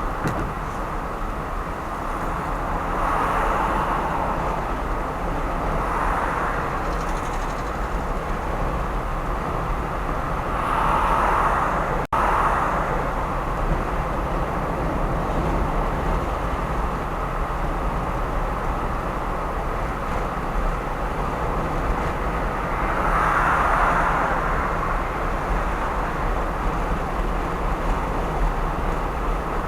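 Steady road and engine noise of a car driving on an urban expressway, with several louder swells of a few seconds each.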